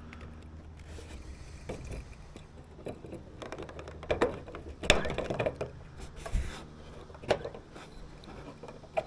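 Scattered clicks and knocks of a battery-powered Blink outdoor security camera being handled and fitted back onto its mount, busiest about halfway through, with a few sharp clicks later on.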